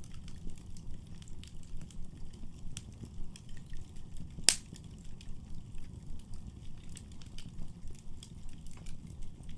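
Firewood burning in a fireplace: a steady low rumble of flame with frequent small crackles, and one loud pop about halfway through.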